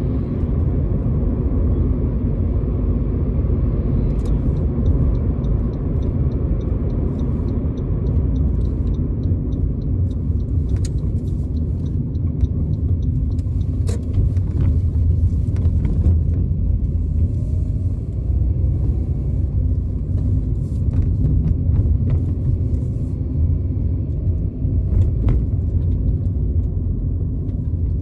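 Road and engine rumble inside a moving car's cabin, steady and low. A run of fast, evenly spaced light ticks comes in about four seconds in and lasts several seconds, and a few single clicks follow later.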